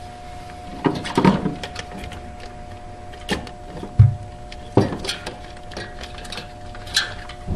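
Scattered clicks, rattles and knocks, with one duller thump about four seconds in, from a replacement refrigerator evaporator fan motor and its metal mounting bracket being handled and set in place.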